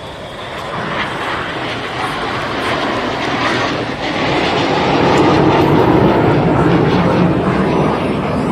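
Red Arrows BAE Hawk T1 jets flying a low pass. The rushing jet-engine noise grows steadily louder as they approach and is loudest about five to seven seconds in.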